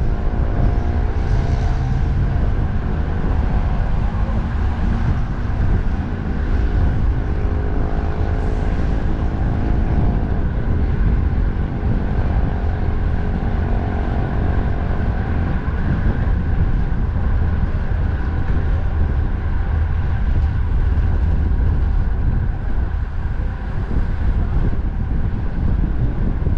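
Wind buffeting the microphone of a moving bicycle, with highway traffic passing alongside; in the first half, vehicle engines rise and fall in pitch as they go by.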